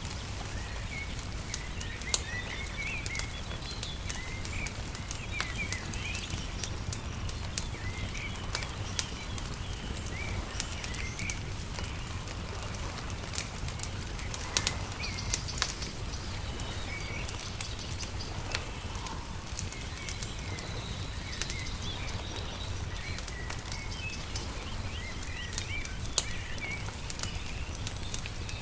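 Wood fire crackling with scattered sharp pops, mixed with small birds chirping in short repeated calls over a steady low rumble.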